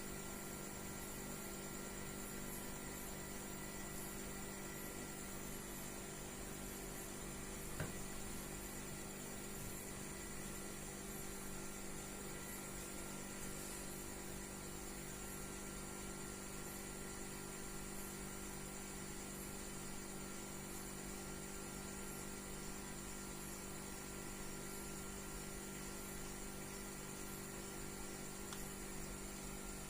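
A steady low electrical hum with faint hiss, and a single soft click about eight seconds in.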